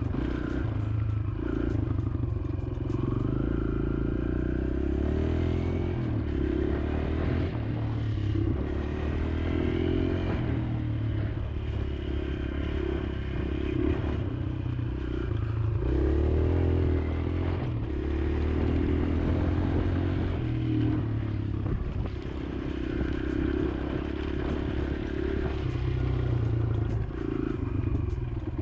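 Kawasaki KLX140L pit bike's single-cylinder four-stroke engine being ridden, its pitch rising and falling again and again as the throttle is worked.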